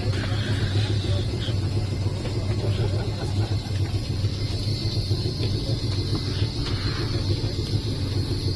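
Heritage electric tram running, heard from inside the car: a steady low hum and rumble from the motors and from the wheels on the rails, with a faint high whine over it.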